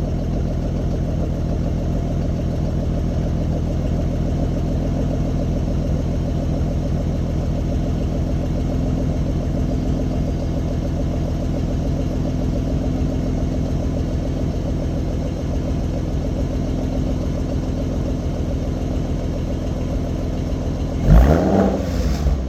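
Ford Mustang 3.7-litre V6 idling steadily through a Roush axle-back exhaust. Near the end it gives one quick rev that rises and falls back.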